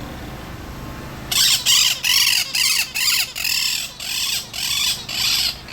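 Parrot squawking: a rapid string of loud, harsh calls, about two a second, starting a little over a second in.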